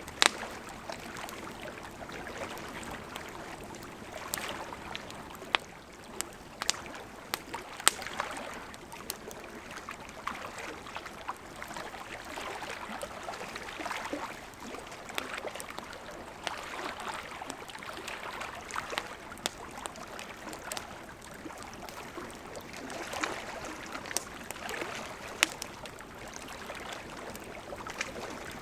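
River water flowing steadily, with a wood campfire crackling over it: scattered sharp pops and snaps at irregular intervals, a few of them much louder than the rest.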